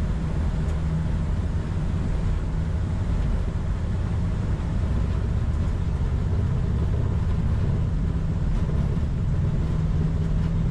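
Flight-deck noise of an Airbus A220-300 accelerating down the runway on its takeoff roll, with its Pratt & Whitney PW1500G turbofans at takeoff thrust: a steady, loud, low rumble.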